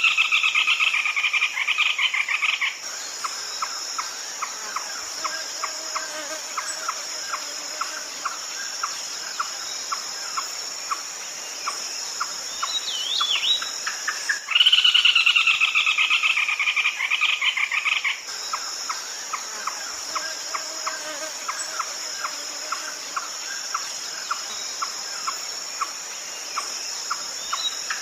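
Red-legged crake calling: a loud, rapid rattling phrase lasting about three seconds, once at the start and again about halfway through, with a steady series of short single notes, about two a second, in between. A constant high-pitched insect drone runs underneath.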